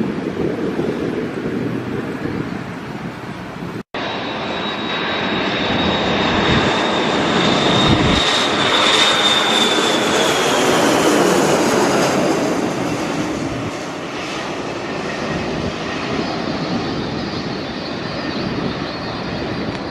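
Jet airliner passing close by. The engine noise swells to its loudest about halfway through and then eases off, with a high whine that drops in pitch as the plane goes past. In the first few seconds there is wind on the microphone, ended by a brief dropout.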